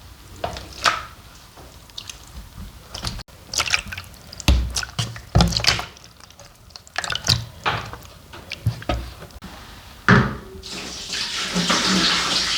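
Brine being poured from a vessel over the fish, with scattered clinks and knocks of handling before a steady pour of liquid starts near the end.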